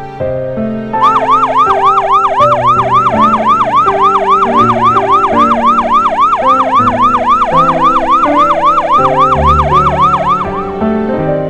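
Fast yelping siren, its pitch sweeping up and down about three to four times a second, starting about a second in and stopping shortly before the end, over piano background music.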